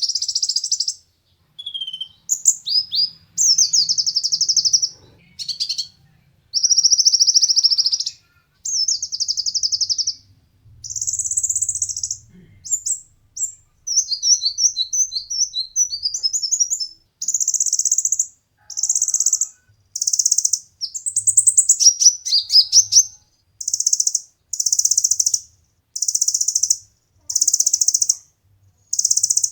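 Kolibri ninja (van Hasselt's sunbird) singing: a steady series of high, rapid trilled phrases and sharp chirps, each about a second long with short pauses between.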